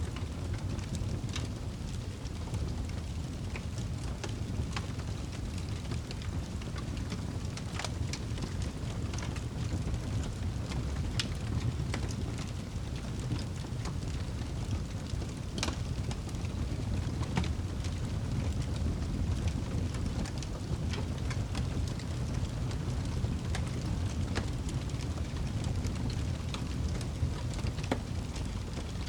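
Wood fire burning in a fireplace: a steady low rumble of the flames with irregular sharp crackles and pops every second or so.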